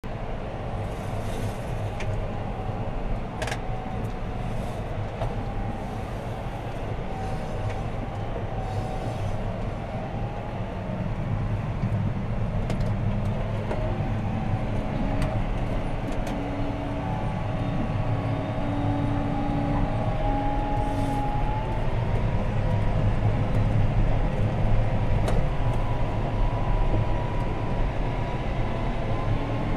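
John Deere 6215R tractor's six-cylinder diesel engine working under load, heard from inside the cab: a steady drone with a whine that rises in pitch and gets louder over the second half, with a few sharp clicks from the cab.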